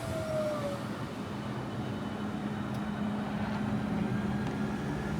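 Electric train at the station platform, giving a steady low hum over a rumbling noise, with a short falling whine in the first second.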